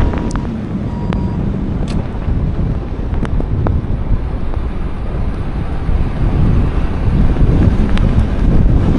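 Steady low rumble of a vehicle on the highway mixed with wind buffeting the microphone, with a few faint clicks and two short beeps in the first second and a half.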